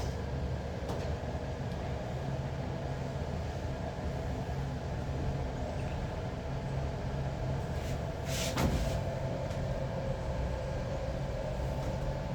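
Steady low rumble of a large vehicle running, with one short, loud hiss about eight and a half seconds in.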